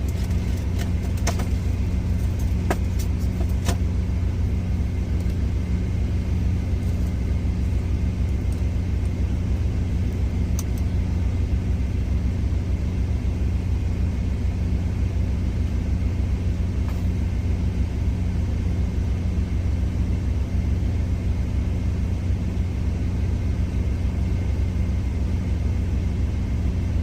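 A semi truck's diesel engine idling steadily, a low rumble heard from inside the cab. A few light clicks of utensils in the first few seconds.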